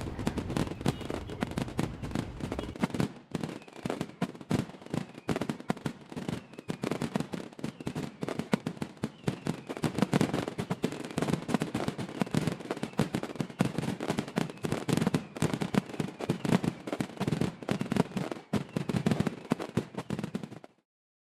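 Fireworks finale: a dense, rapid barrage of bangs and crackling reports, cutting off abruptly near the end.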